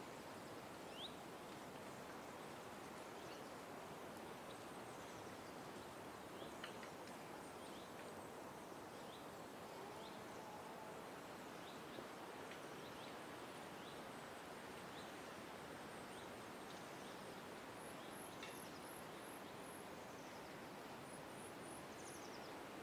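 Faint park ambience: small birds giving scattered short chirps over a steady background hiss. Near the end come two quick runs of high thin notes, first about five, then four.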